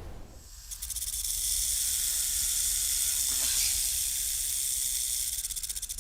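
Rainforest insects in a dense, high-pitched chorus, a rapidly pulsing buzz that comes in sharply about a second in and then holds steady.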